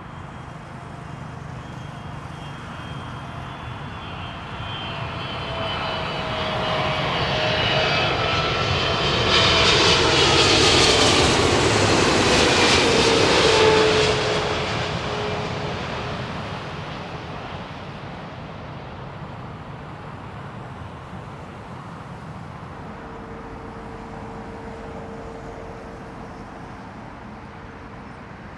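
Jet airliner on final approach flying past, its engine whine swelling to a peak about halfway through, falling in pitch as it goes by, then fading away. A steady engine tone carries on near the end.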